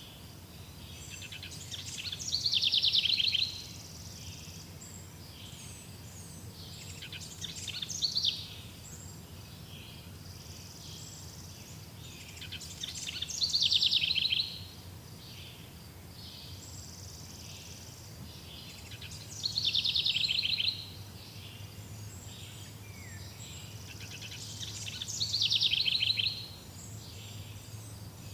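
A songbird singing one rapid trilled phrase about every five to six seconds, five songs in all, over a steady low background hum.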